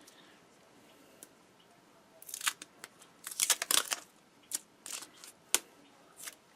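Irregular bursts of sharp clicks and crisp crackles of small objects being handled at close range, starting about two seconds in, with the densest cluster in the middle and a few single sharp clicks near the end.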